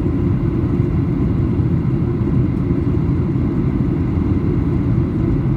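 Steady cabin noise inside a Boeing 737-800 on approach with flaps partly extended: a dense, even low rumble of airflow and engines.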